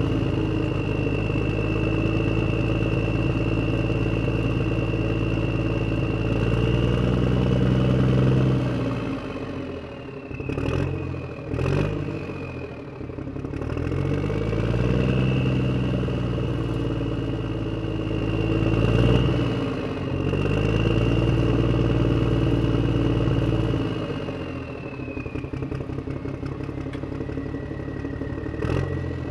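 Engine running steadily, its pitch dropping and climbing back up twice as if throttled down and revved again, with a steady high whine over it. A few sharp clicks come about ten to twelve seconds in and again near the end.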